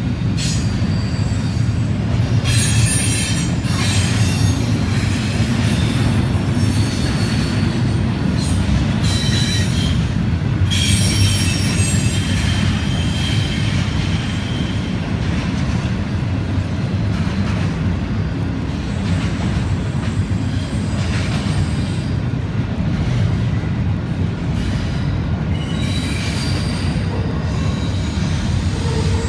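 Double-stack container train rolling past: a steady rumble from the wagons, with high-pitched wheel squeal that comes and goes several times.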